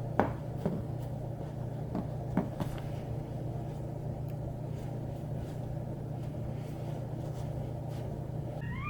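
A steady low rumbling hum with a few light taps in its first few seconds, and a high wavering call beginning right at the end.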